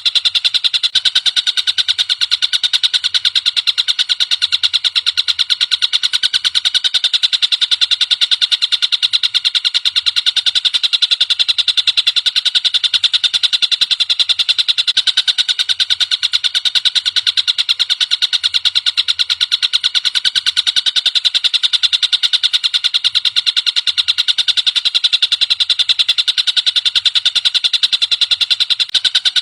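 Tengkek buto kingfisher calling in a continuous, rapid, high-pitched chatter of fast repeated notes that never breaks.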